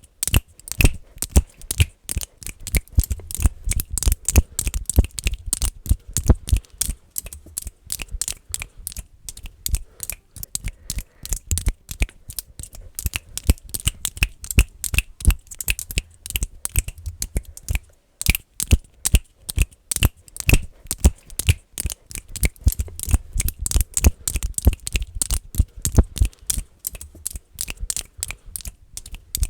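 Fast, aggressive finger clicking close to the microphone, several sharp clicks a second with a low thump under many of them. The clicking pauses briefly about 18 seconds in, then carries on.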